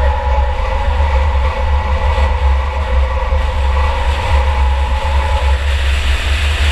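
2004 Chevy Impala enduro race car running under way, heard from on board: a heavy, steady low rumble with a steady whine over it that drops out about five and a half seconds in.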